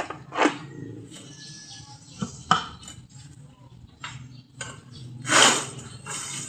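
Small hard objects, likely metal parts and tools, clinking and knocking as they are handled, with a louder scraping clatter about five seconds in.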